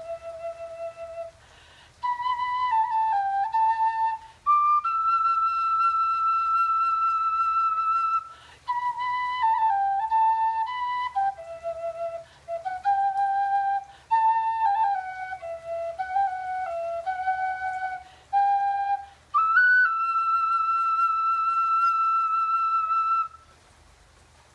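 A lament played solo on a flute-type wind instrument: a slow melody of long held notes and short runs, in phrases with brief pauses between them, ending about a second before the end.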